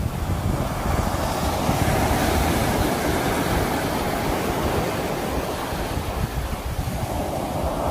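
Sea waves breaking and washing ashore. One wave swells up about a second in and slowly eases away, and the next starts building near the end.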